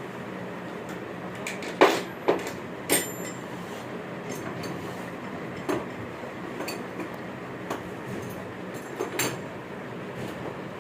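Metal tools and parts clinking and knocking on a workshop bench, a few sharp strikes at uneven intervals, the loudest about two seconds in, over a steady background hum.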